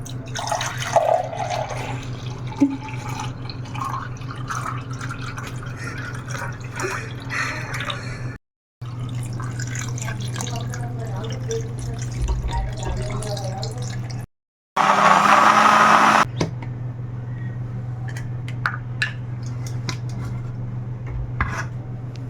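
Kitchen sounds of liquid pouring and dripping with small clicks, over a steady low hum. About 15 seconds in there is a loud burst of noise lasting about a second and a half.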